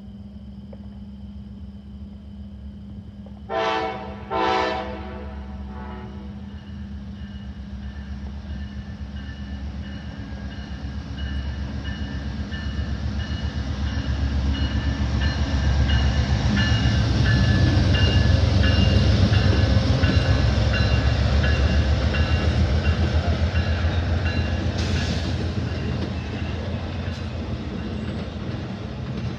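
A train sounds two short horn blasts about four seconds in, the second a little longer, then passes with a low rumble that grows steadily louder, peaks about two-thirds of the way through and eases off near the end, with thin high steady tones above the rumble.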